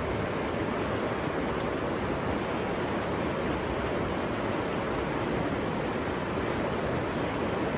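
River water running steadily over rocks, an even rushing noise.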